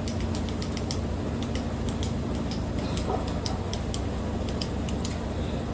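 Washing machine running with a steady low hum, overlaid by quick, irregular ticking and clicking several times a second.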